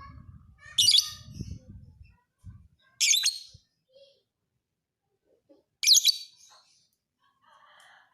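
Lovebird giving loud, shrill chirping bursts, three of them about two to three seconds apart, with fainter chirps in between.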